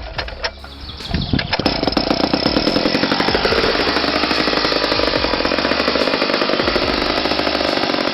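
Two-stroke chainsaw engine running at high revs with a rapid, even firing rhythm. It builds up about a second and a half in and then holds steady.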